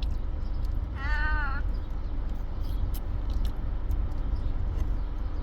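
A single short, high-pitched, wavering cry about a second in, lasting about half a second, over a steady low hum.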